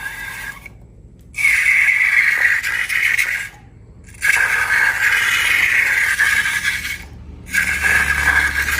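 Scraping noise from slime-making handling, in three long stretches broken by short, abrupt silences.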